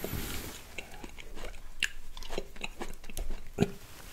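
Close-miked chewing of red seedless grapes, with irregular sharp mouth clicks and bites.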